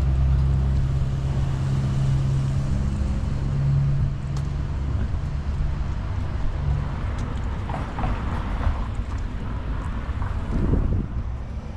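A motor vehicle's engine running with a steady low hum that fades away about seven seconds in, with wind buffeting the microphone.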